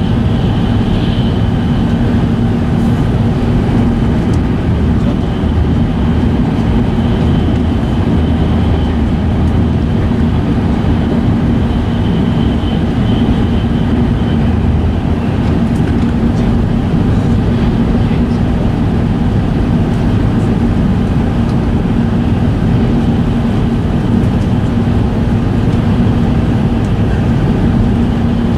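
Steady running noise of an E5 series Shinkansen heard inside the passenger cabin at speed: a dense, even rumble of wheels and track with a constant low hum over it and a faint high whine that comes and goes.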